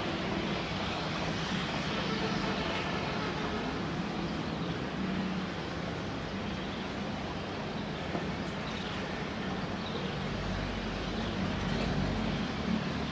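Jet airliner's engines running at takeoff power: a steady rumble with a low hum.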